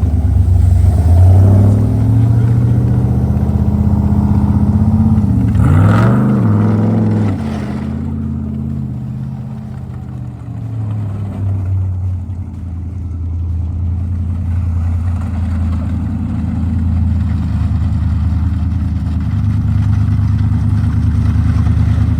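Dirt bike engine running loud and steady, revving up and back down about six seconds in, then settling to a quieter, steady note that gradually gets louder again toward the end.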